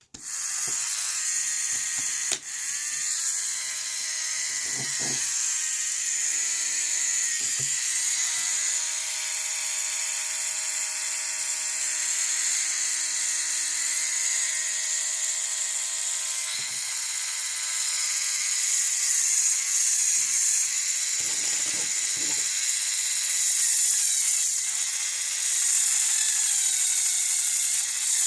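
LEGO Power Functions XL motor running with its internal gearing, a steady high whirring whine that starts suddenly. Its pitch dips briefly a few times.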